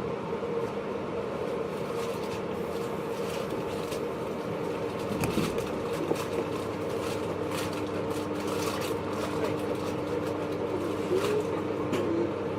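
Interior running sound of a JR East 583 series electric train, heard in its MoHaNe 582 motor car: a steady rumble from the running gear, sharp clicks of the wheels over the rail joints, and a steady hum, with a second steady tone coming in about five seconds in.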